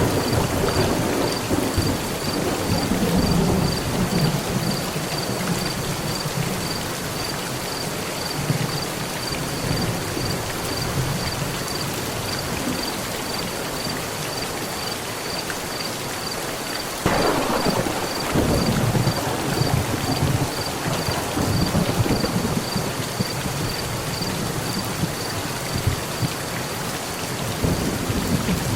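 Heavy rain falling steadily on a metal roof, with rolling thunder. One rumble at the start fades over a few seconds, and a sudden crack about two-thirds of the way through rolls on for several seconds before a last rumble near the end.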